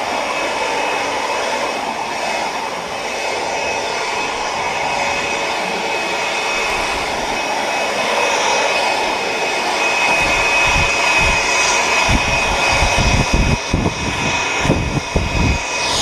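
Electric sander running steadily against an aluminum boat hull, a steady whine. A series of low thumps comes in over the last few seconds.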